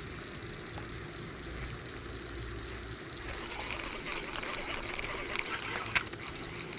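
Water splashing and trickling. It grows busier and crackling about three seconds in, and there is one sharp click near the end.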